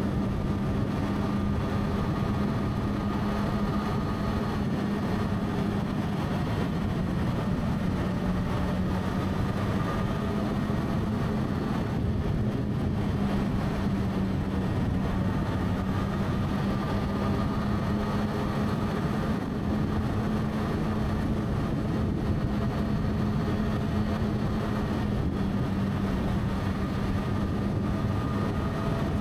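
Motorcycle engine running at a steady cruise. Its note holds near one pitch with small rises and dips, over a steady rushing noise.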